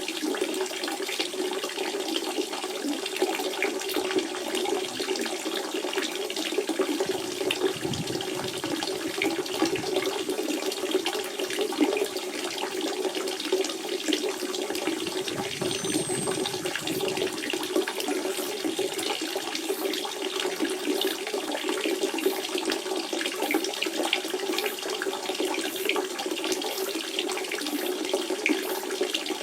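Natural spring water running and splashing steadily, a continuous gurgling flow with a stronger low rushing tone.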